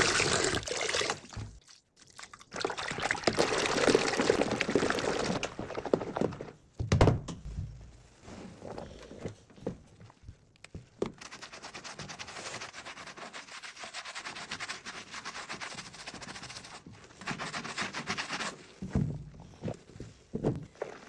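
Shoe being cleaned by hand: stretches of scrubbing and brushing with some wet, liquid sounds, a fast even brushing passage in the middle, and a few knocks.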